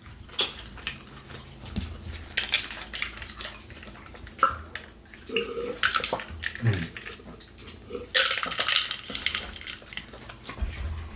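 Close-miked eating: cutlery clicking and scraping against plates, with chewing and mouth sounds in between.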